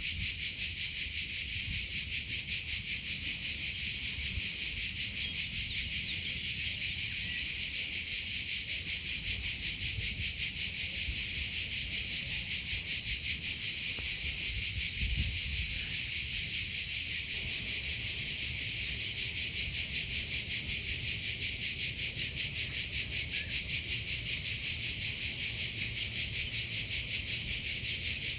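Crickets chirping in a continuous chorus: a steady, high-pitched pulsing trill that never breaks.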